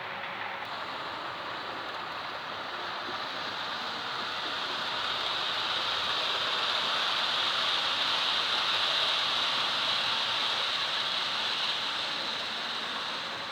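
Model train running on the layout's track: a steady rolling whir of wheels on rail that grows louder over the first half, peaks, and eases off near the end as it passes close by.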